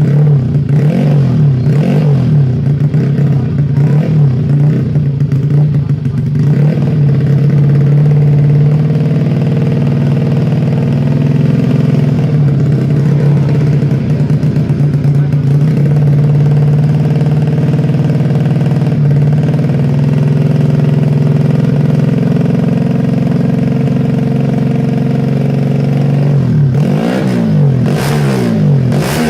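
Single-cylinder four-stroke engine of a Yamaha Jupiter road-race motorcycle tuned out to 150 cc, running on tune-up. It is blipped at the start, held at a steady fast idle for most of the time, then revved up and down repeatedly near the end.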